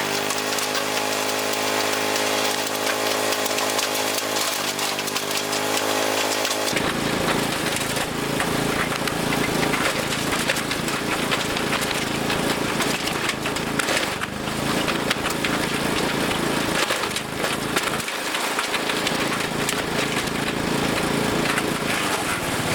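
Engine-driven wood chipper running steadily, its engine note sagging briefly about four and a half seconds in as it takes a load, then recovering. From about seven seconds in, branches are being chewed up in the chipper: a dense grinding din with repeated cracking and splintering of wood.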